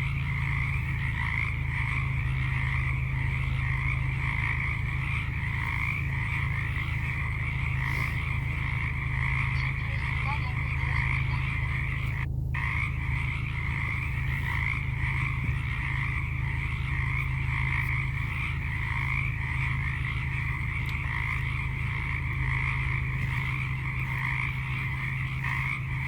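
Japanese tree frog calling without pause in a rapid, rattling croak, with one short break about twelve seconds in. A steady low hum runs underneath.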